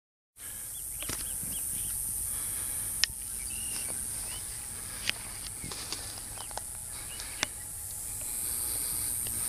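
Outdoor natural ambience: a steady high hiss that cuts in about half a second in, with a few short bird chirps and several sharp clicks scattered through.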